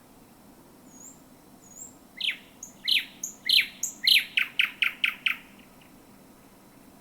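Thrush nightingale singing one phrase: a few faint high whistles, then loud, sharp notes sweeping downward that speed up into a rapid series of strokes and stop abruptly about five seconds in.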